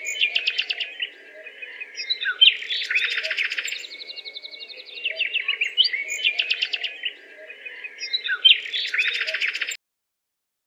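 Songbirds chirping and singing in quick trills and rapid chirp series, coming in bursts, with the same pattern of phrases seeming to recur about every five and a half seconds. The sound cuts off abruptly about a second before the end.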